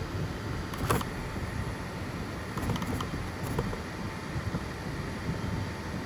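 FDM 3D printer running: a steady whir of fans and stepper motors with a faint hum. A few light clicks come about a second in and again around three seconds.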